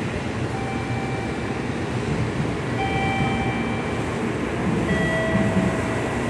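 Tokaido Shinkansen train running at the station platform: a steady heavy rumble, with three short, steady high tones of about a second each, the last a little lower.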